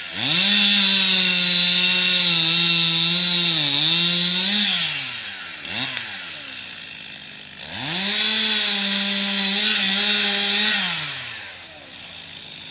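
Two-stroke chainsaw revved to full throttle twice, each run holding high for about four seconds before dropping back to idle. The pitch sags briefly near the end of the first run.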